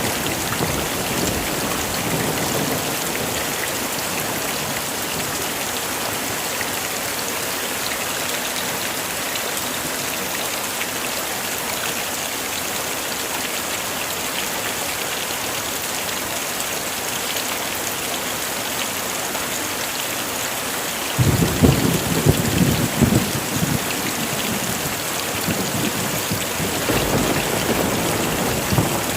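Heavy rain falling steadily. A thunder rumble dies away at the start, thunder breaks suddenly about two-thirds of the way through and rumbles for a few seconds, and another low rumble rises near the end.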